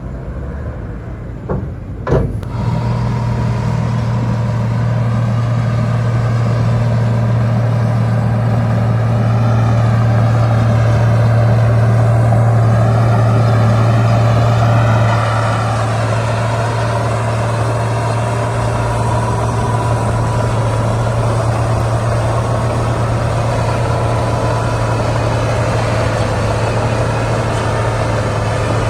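Heavy diesel engine of earthmoving machinery running steadily under load, with a deep hum and a wavering pitch. It rises a little for several seconds in the middle and eases off about halfway through. Two short sharp clacks come about two seconds in.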